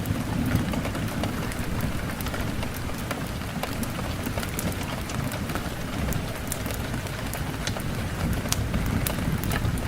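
Steady rain with a low rumble beneath it, mixed with frequent sharp pops and crackles of a wood fire.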